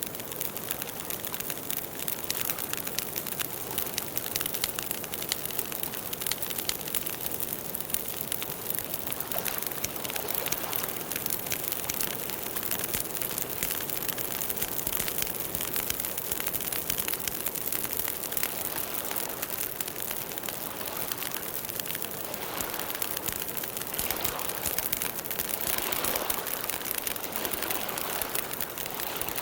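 Campfire burning, with a dense, continuous crackle of small pops over a steady hiss of the flames.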